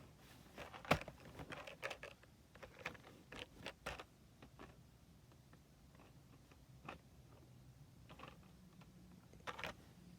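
Faint clicks, taps and light rattles of a plastic HO-scale model locomotive being turned over and handled, busier in the first few seconds and again near the end, with a quieter stretch in between.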